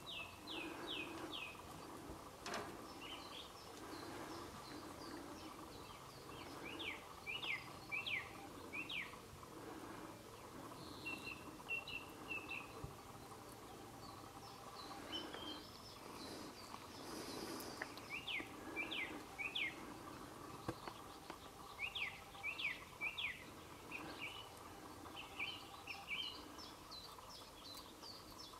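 Songbird singing outdoors, a short phrase of three or four quick sharp notes repeated every few seconds, with a few other chirps between, over a faint steady background.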